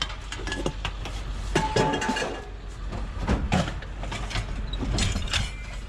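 Scrap metal clanking and scraping as pieces are pulled loose from a tangled pile: a run of irregular knocks and clatters, one piece ringing briefly about two seconds in, over a steady low rumble.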